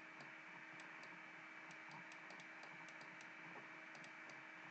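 Near silence: faint room tone with a low steady hum and scattered faint, irregular clicks.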